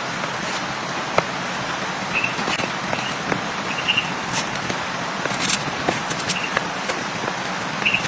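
Heavy rain falling steadily, with scattered sharp drop taps and a few short high-pitched chirps.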